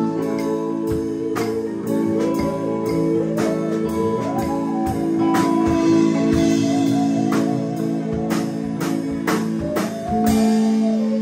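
Live band playing a blues-style jam: held chords underneath, a lead line that bends up and down in pitch over them, and steady drum hits.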